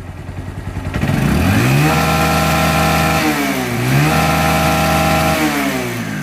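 Bajaj Discover 135's single-cylinder four-stroke engine revved twice from idle, each rev held briefly before dropping back. It runs smoothly with no tick-tick from the valve gear and no whirring under throttle, its camshaft and rocker arm just replaced.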